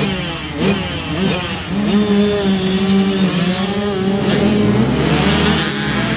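Motocross dirt bike engines revving and running hard, the pitch dipping and climbing a few times as the throttle and gears change, with a steady stretch in the middle.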